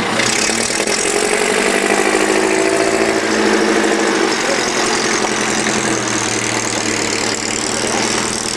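A classic car's engine idling steadily.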